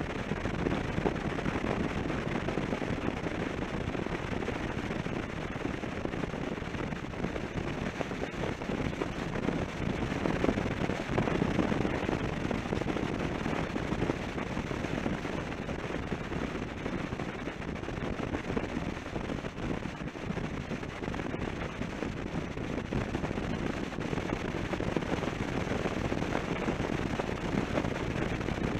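Suzuki V-Strom 650 V-twin motorcycle riding along a highway, its engine and the rushing, fluttering wind on the mounted microphone heard together.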